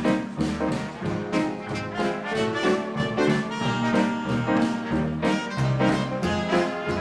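Big band dance orchestra playing a 1930s-style swing number, with the trombones and trumpets to the fore over a steady beat.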